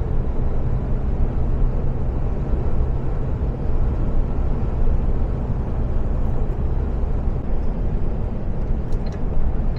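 Iveco Stralis 510's six-cylinder diesel engine and road noise heard inside the cab, a steady drone while the truck cruises at highway speed.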